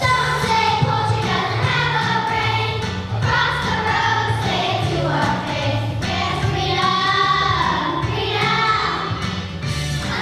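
A group of young voices singing a song together over instrumental accompaniment with a repeating bass line.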